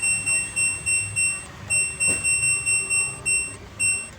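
Washing machine control board's buzzer giving a rapid string of short, high, identical beeps, about three a second, with a brief break around a second and a half in: the key beeps of the water-level setting being stepped through.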